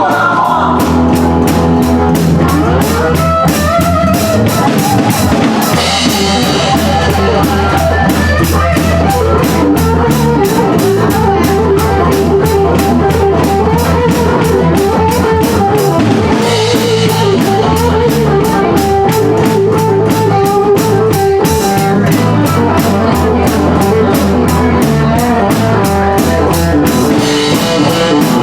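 Live country-rock band playing an instrumental passage: drum kit keeping a steady beat under bass and electric guitar.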